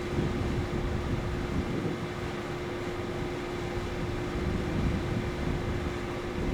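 Steady mechanical hum with one constant tone, under uneven low rumble from wind on the microphone.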